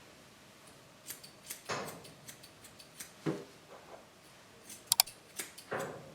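Grooming scissors snipping a dog's hair: a series of irregular short snips, with a quick double snip near the end.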